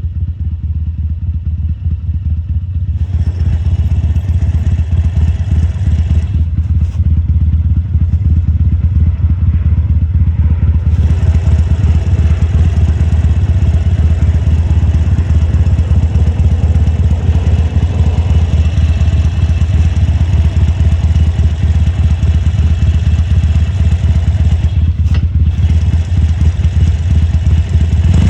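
2014 Harley-Davidson Sportster XL1200C's air-cooled 1200 cc V-twin running with a deep, steady pulse. It grows louder about three seconds in and again around eleven seconds, with brief dips near six and twenty-five seconds.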